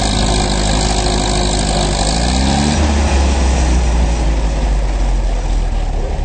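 Pulling tractor's engine running loud, its pitch climbing as it revs up about two seconds in, then settling into a strong low rumble.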